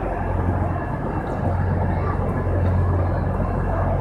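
Steady low drone and rumble of a train standing at a terminus platform, echoing under the station's train-shed roof.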